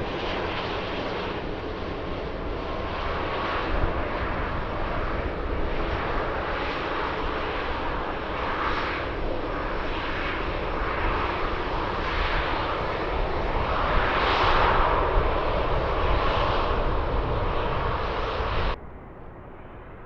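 Airbus A320-211's CFM56 jet engines running loudly as the airliner passes, with gusty wind rumbling on the microphone. The engine noise swells about two-thirds of the way through and is cut off abruptly near the end.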